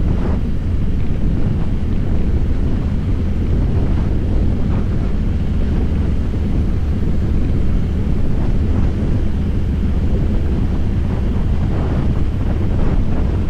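Harley-Davidson Fat Boy's V-twin engine running steadily while riding, with heavy wind buffeting on the microphone.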